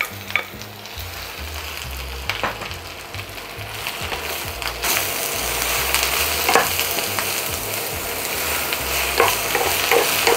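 Spinach with onion and garlic sizzling in hot oil in a frying pan while it is stirred, with a few sharp knocks of the utensil on the pan; the sizzling grows louder about five seconds in. The spinach's water is cooking off.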